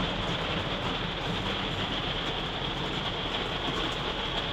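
Rain falling steadily during a storm, an even, unbroken hiss.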